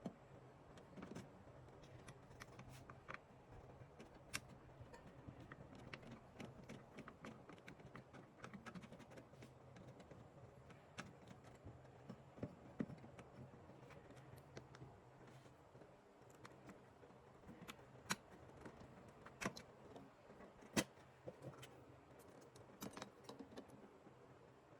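Faint scattered clicks and metallic taps of hand tools and screws being handled while the fan and high-voltage capacitor screws inside a microwave oven are undone, over a faint steady hum. A few sharper clicks come in the second half.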